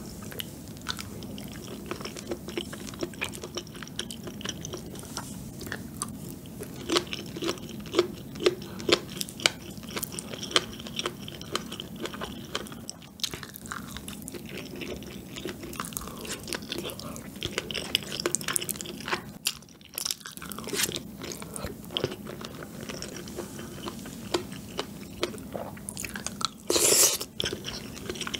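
Close-up chewing of chewy rice cakes and fish cake in a creamy sauce, with wet, sticky mouth sounds and many small clicks. A louder noisy burst about a second long comes near the end.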